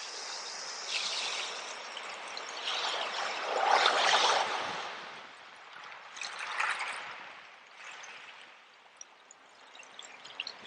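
Sea waves washing in and draining back, the loudest wash about four seconds in and a smaller one a little later, then quieter lapping water.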